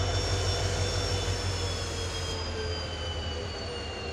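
A train running on the tracks: a steady low rumble with thin, high wheel-squeal tones that slowly fall in pitch.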